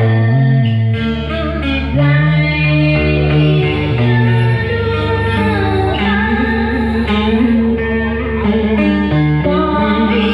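Vietnamese cải lương guitar (ghi ta phím lõm, scalloped fretboard) playing a melody with bent, gliding notes, with a voice singing along.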